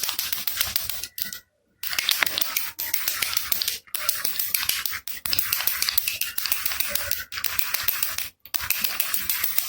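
Baby rattle shaken hard and fast: a dense, rapid clatter, in bursts broken by brief pauses, the longest about one and a half seconds in.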